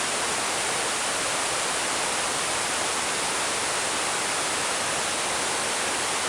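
Creek rushing and cascading in heavy flow, swollen by days of heavy rain: a steady, even rush of water with no change.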